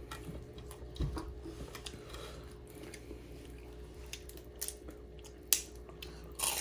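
Chewing and crunching on crispy deep-fried egg rolls, with scattered small crunches and clicks, a low thump about a second in and a sharper crack about five and a half seconds in.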